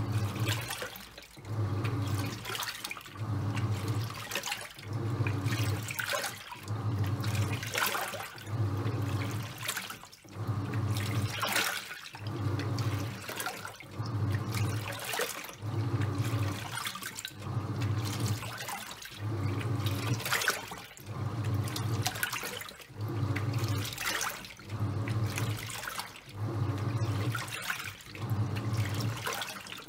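Top-loading washing machine agitating a load of towels: the motor hums in regular pulses of a second or two as the pulsator turns back and forth, with water sloshing and swishing through the wash.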